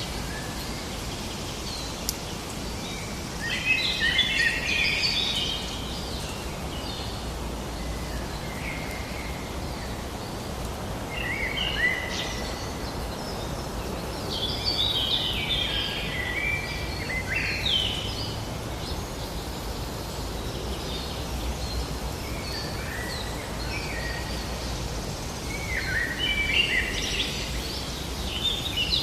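Songbirds singing in short phrases of quick chirps and trills, several phrases a few seconds apart, over a steady low background rumble.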